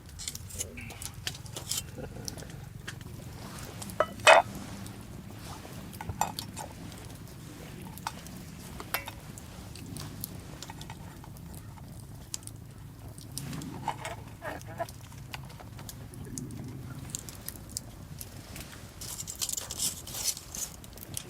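Cooking utensils and cookware clinking and knocking in scattered, irregular strokes over a steady low background hum; the loudest is a single sharp knock about four seconds in.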